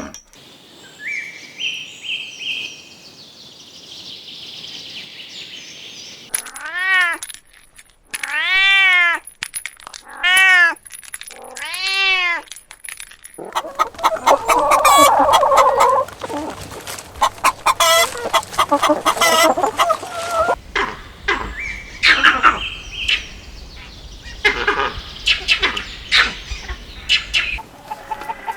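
Chickens calling and clucking. First come high chirps. Then there are four drawn-out calls, each rising and then falling in pitch. About halfway in, a long stretch of busy, rapid clucking begins.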